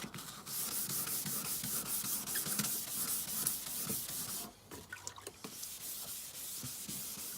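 Van headlight lens being wet-sanded by hand with 120-grit sandpaper: rapid back-and-forth rasping strokes that stop briefly a little past halfway and then start again. The sanding is taking off the lens's cloudy oxidation.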